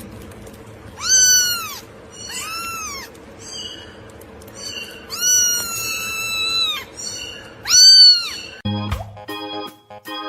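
A cat meowing four times, the third call long and drawn out. Keyboard music starts near the end.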